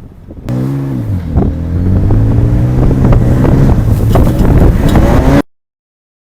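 Ford Ranger Raptor's 3.0 L twin-turbo V6 under hard acceleration: the exhaust note comes in loudly about half a second in, dips briefly in pitch, then climbs slowly in pitch and grows louder before cutting off abruptly about five seconds in.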